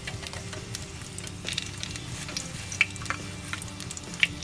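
Dried squid frying in shallow oil in a nonstick pan: a steady sizzle broken by sharp crackling pops. The two loudest pops come about three seconds in and near the end.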